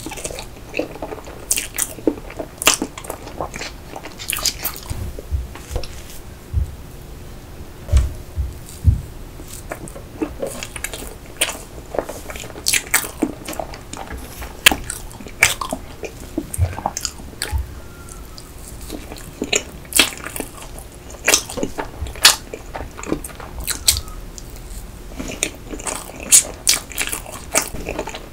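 Close-miked chewing of soft rainbow layer sponge cake with cream: wet, sticky mouth sounds and many sharp irregular smacks and clicks, with a couple of low thuds about eight seconds in.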